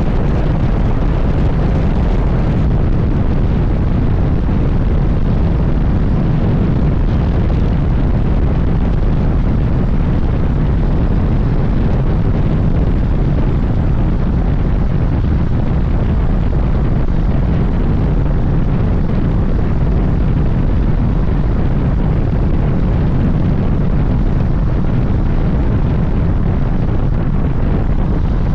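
Suzuki GSX-S1000GT motorcycle's inline-four engine running under way at a steady pace, mixed with wind rushing over the microphone. A steady, loud rumble with no marked revving or shifts.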